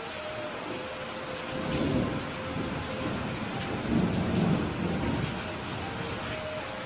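Steady rain falling, with thunder rumbling low about two seconds in and again, louder and longer, around four to five seconds in.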